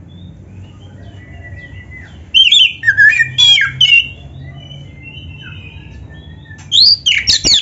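Oriental magpie-robin (kacer) singing: a burst of rapid, varied whistled and harsh phrases about two seconds in, faint scattered notes after it, and loud song again near the end.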